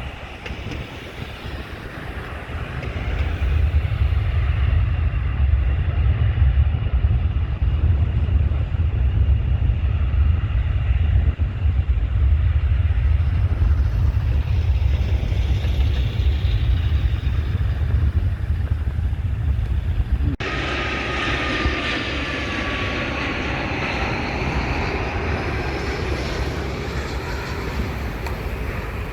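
Jet airliner engines on landing approach: a heavy low rumble that swells about three seconds in, then changes abruptly about two-thirds of the way through to a higher engine whine with slowly falling tones.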